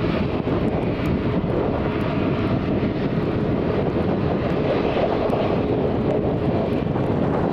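Ryanair Boeing 737 jet engines running steadily, a continuous rushing noise with a faint steady whine.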